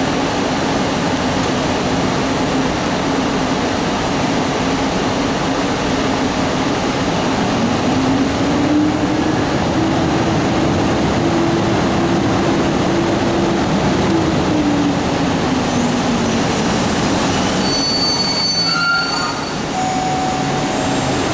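Electric passenger train running alongside the platform. Its motor hum rises in pitch, holds, then falls back, with brief high wheel squeals near the end.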